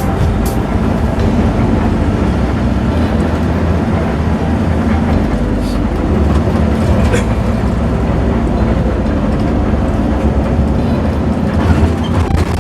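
Steady engine and road rumble of a coach bus on the move, heard from inside the cabin, with a few light clicks and rattles.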